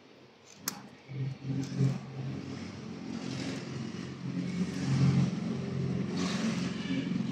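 A motor vehicle engine running, swelling and easing in level, with a sharp click about a second in.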